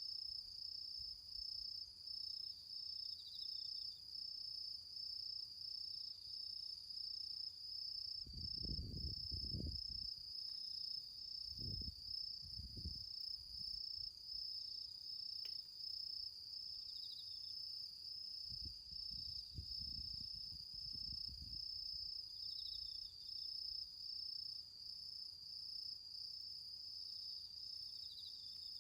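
Crickets trilling in a steady, high, pulsing chorus, with a second insect giving short chirps every few seconds. A few low rumbles come around the middle.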